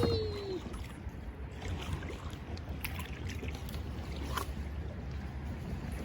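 Kayak paddling on a river: a sharp knock at the start, then soft splashes and drips with a few light clicks, over a steady low rumble of wind on the microphone.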